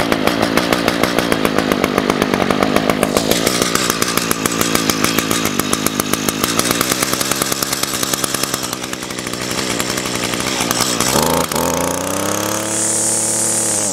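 Echo two-stroke string trimmer just cold-started and running unevenly, with a fast pulsing beat. About eleven seconds in it revs up, and it cuts out at the very end: the engine is still cold and dies before warming up.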